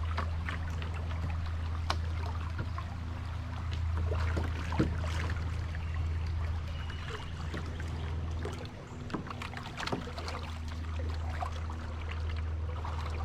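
Kayak being paddled: small splashes and drips of water from the paddle, with light knocks, over a steady low hum that dips briefly about two-thirds of the way through.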